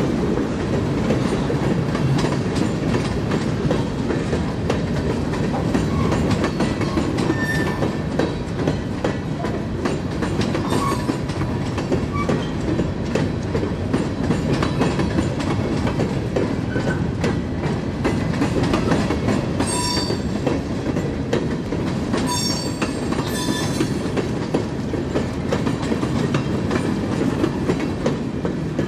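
Train rolling along the track: a steady rumble and clatter of wheels on rail, broken by several short high-pitched wheel squeals in the middle stretch.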